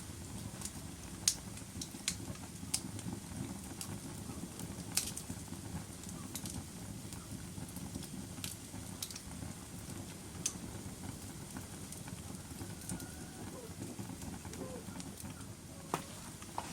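Log fire burning in a fireplace: a steady low rumble of flames with irregular sharp crackles and pops from the wood, a dozen or so spread through, more of them in the first half.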